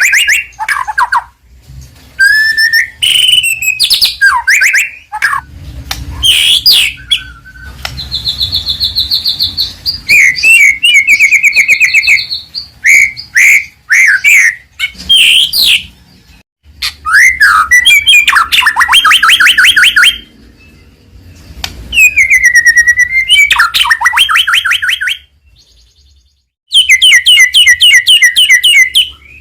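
White-rumped shama (murai batu) singing loudly, in a string of varied phrases: clear whistled glides and fast rattling trills, separated by short pauses.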